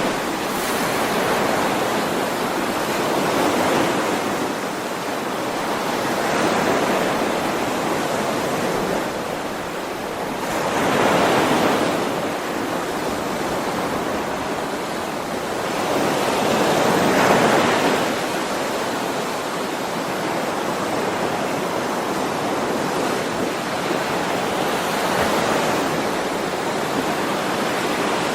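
Ocean waves washing on a shore. The wash rises and falls every few seconds, with two stronger swells, about a third and about three-fifths of the way through.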